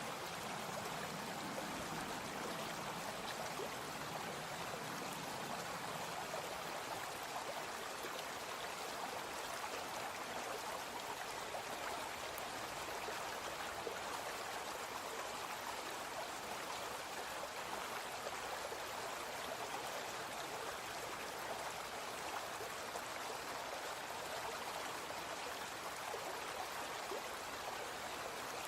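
Small brook flowing, a steady, even rush of water that holds at one level throughout.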